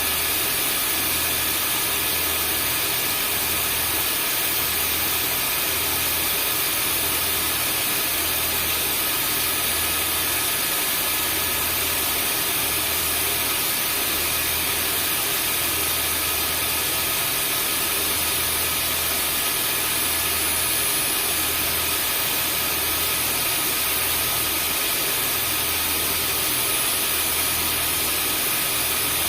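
Vacuum cleaner running steadily: an even motor whine and airflow hiss with a low hum that throbs about once a second.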